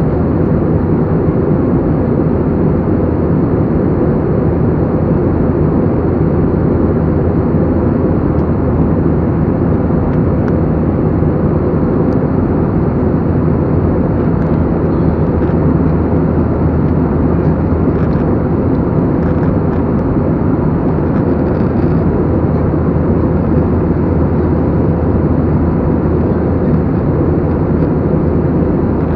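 Airliner cabin noise in flight: the steady, deep rush of the jet engines and the airflow past the fuselage, heard from inside the cabin, unchanging throughout.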